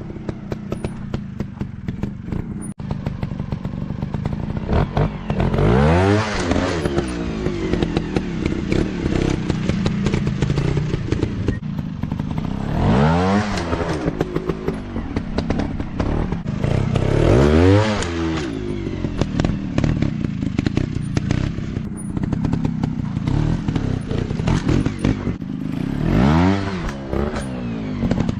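Dirt bike engine running, revved hard up and back down four times.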